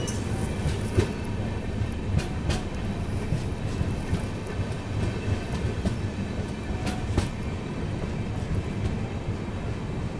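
Passenger train coach rolling slowly into a station: a steady low rumble of wheels on the rails, with a few sharp clacks, two of them in quick pairs, as the wheels cross rail joints.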